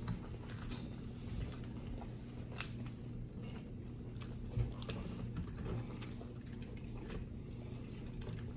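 Close-up eating sounds: chewing and biting into fried fish and spaghetti, with scattered small clicks and a little crunch. A steady low hum runs underneath.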